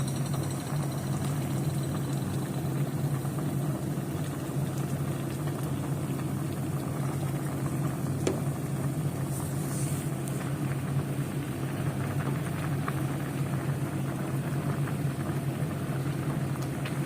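A steady low machine hum at an even level, with a few faint clicks over it, one a little clearer about eight seconds in.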